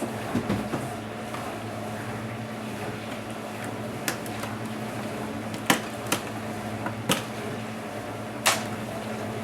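Scattered sharp clicks and taps of Dell Inspiron 1525 laptop parts being handled during disassembly: a quick cluster at the start, then single clicks every second or so, over a steady low hum.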